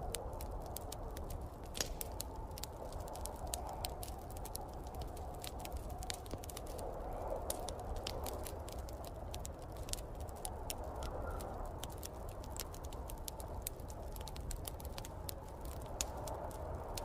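Wood fire crackling in a fireplace, with many irregular sharp pops and snaps, over a steady low rush of snowstorm wind that swells and eases.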